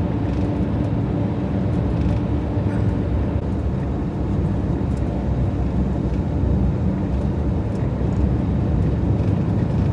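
Fiat Ducato van driving, a steady low rumble of engine and road noise.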